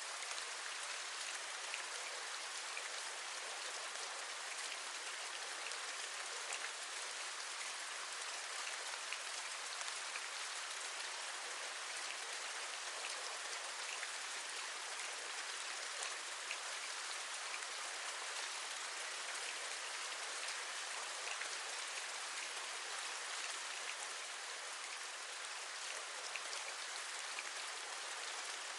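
Steady rain, with individual raindrops tapping a window ledge as faint scattered ticks over an even rush.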